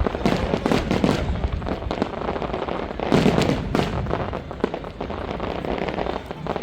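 Fireworks going off in quick succession: dense irregular bangs and crackling, with a heavier cluster of bangs about three seconds in.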